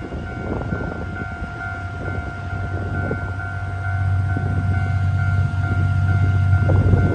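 Level crossing warning alarm ringing with a steady pulsing tone, about two beats a second, as a train passes; the train's low rumble grows louder from about halfway through.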